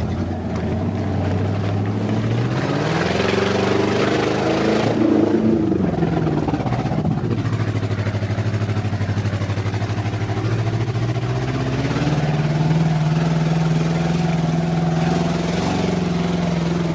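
Ford 289 small-block V8 with open headers, heard from inside the truck's cab, revving under load. The revs climb over the first few seconds, drop back about six seconds in, then climb again around twelve seconds and hold.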